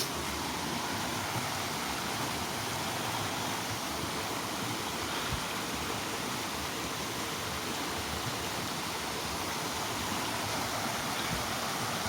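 Mountain stream water flowing, a steady rushing.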